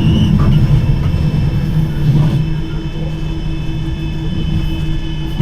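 Manchester Metrolink tram running between stops, heard from inside the passenger saloon: a steady rumble of wheels on rail with a constant motor hum and a faint high whine.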